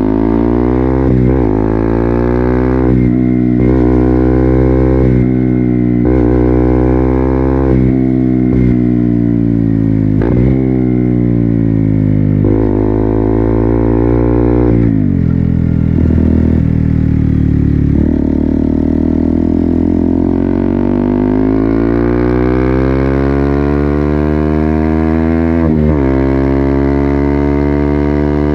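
KTM Duke 200's single-cylinder engine through an Akrapovic full-system exhaust, accelerating through a run of gear changes, its pitch climbing and then dropping sharply at each shift. About halfway through it eases off, and it pulls steadily again near the end.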